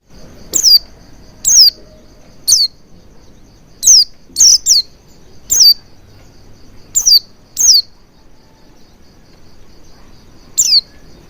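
White-eye (pleci) calling: about ten short, sharp, high notes, each sliding downward, given singly or in quick pairs at irregular gaps of roughly half a second to three seconds. A faint steady high trill runs beneath them.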